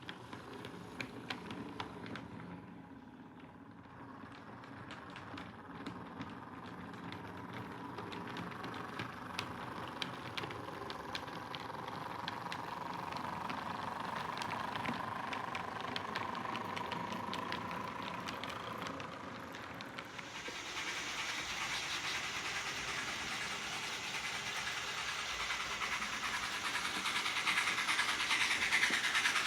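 Model train running on its layout track: a steady motor-and-wheel rumble with rapid fine clicking from the wheels over the rail joints. It grows louder and brighter as the train approaches, most sharply about two thirds of the way in.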